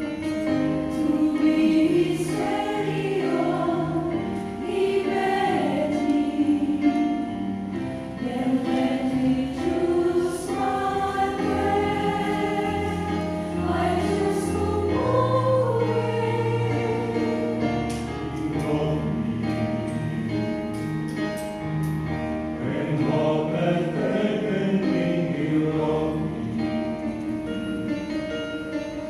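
Church choir singing a gospel song, several voices together in sustained, shifting chords over a steady low bass.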